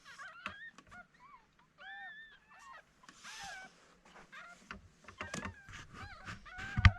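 Newborn cockapoo puppies whimpering and squeaking in short, high cries that rise and fall, with rustling and a thump near the end.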